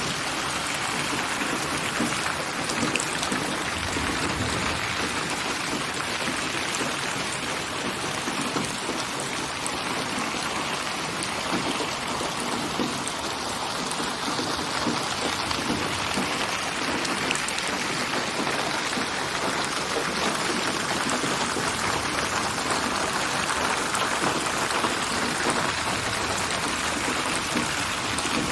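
Steady, dense rain falling on surfaces, with many individual drops pattering, spatialised to move around the listener; the intensity shifts slowly but stays even.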